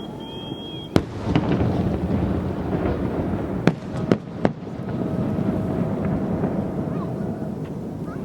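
Fireworks shells bursting over a continuous low rumble: a sharp bang about a second in (the loudest), three quicker bangs around the middle, and another right at the end.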